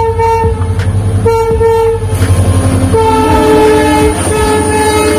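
Indian Railways locomotive passing close by, sounding its horn in a few short blasts and then a longer blast from about three seconds in, over a low rumble. Its wheels click over the rail joints as it goes past.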